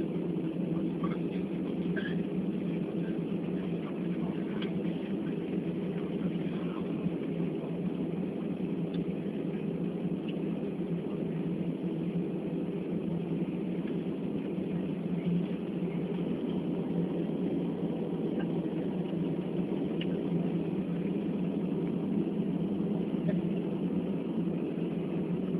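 Steady hum of an airliner cabin after landing, from the engines and air conditioning, even throughout.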